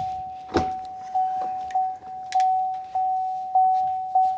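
GMC Duramax 2500 pickup's cab warning chime dinging over and over at one pitch, about one and a half to two chimes a second, each fading before the next. There is a single sharp click about half a second in.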